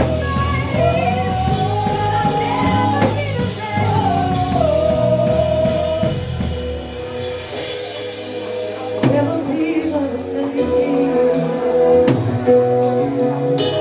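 Gospel praise band playing, with a sung melody held over drums and guitar.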